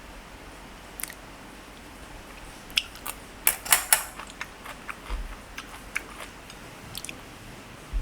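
Close-up eating sounds: chewing with scattered sharp clicks of utensils on a lunch container, and a louder clatter of several clicks about three and a half seconds in.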